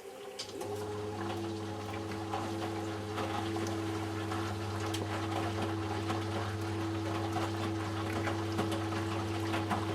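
Eudora Sparmeister 702 Classic washing machine in its prewash. A motor starts about half a second in and runs with a steady hum and whine, over light clicks and water sounds from inside the machine.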